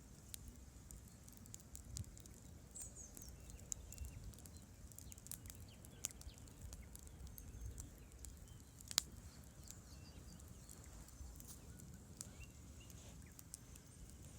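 Wood campfire crackling with scattered sharp pops, one louder pop about nine seconds in, over a faint steady low rush of river water.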